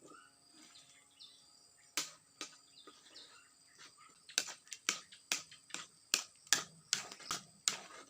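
A series of sharp knocks or taps from kitchen work: two isolated hits about two seconds in, then an uneven run of about two a second from halfway through, over a faint steady hum.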